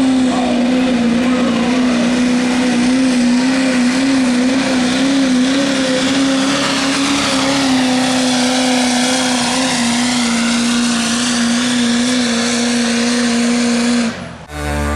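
Turbocharged diesel pickup engine held at full throttle during a truck pull, its pitch steady with a slight waver. It cuts off abruptly near the end, and music starts just before the end.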